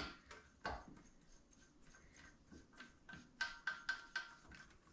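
Faint, sharp metallic clicks of a hand wrench working the handlebar clamp bolts of a 1969 Honda Z50 mini bike, some with a short ring; they come closer together in the second half, about four a second.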